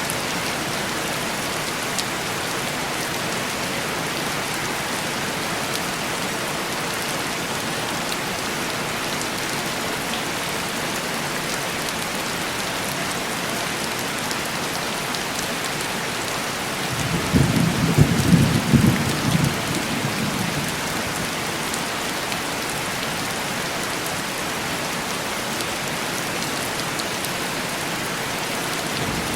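Steady heavy rain pattering on a window pane. About 17 seconds in, a low rumble of thunder swells and fades over roughly four seconds.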